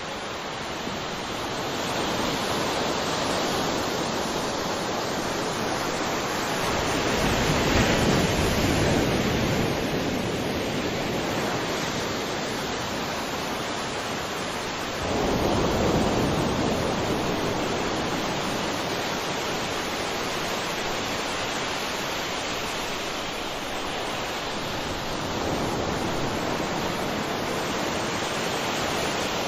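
Sea waves washing onto a shore in a continuous surf. One wave swells up about eight seconds in, another breaks suddenly and more loudly about halfway through, and a smaller one rises near the end.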